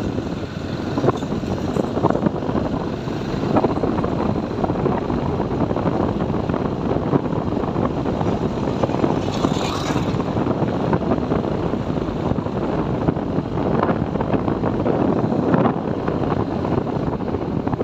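TVS Apache 4V motorcycle riding along at a steady pace, its engine running under a constant rush of wind and road noise.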